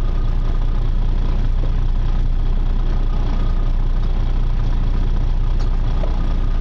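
Boat engine running steadily as a constant low hum, heard from on board.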